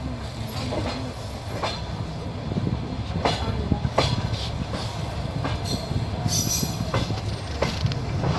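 Moving passenger train heard from inside the carriage: a steady low rumble from the running gear, with wheels knocking over rail joints in irregular clicks.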